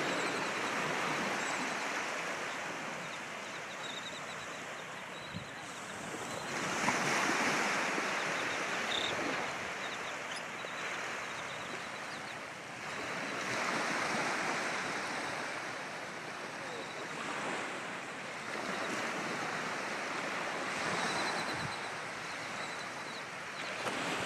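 Ocean surf breaking and washing, swelling and easing about every six or seven seconds.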